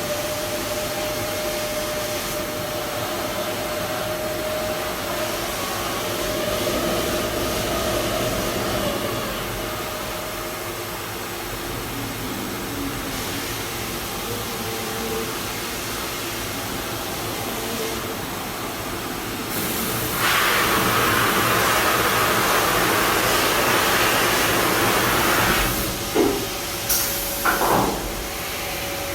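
Ski base grinding machine running steadily, working the base of a race ski. About two-thirds of the way in a louder hiss sets in for several seconds, then a few short sharp sounds follow.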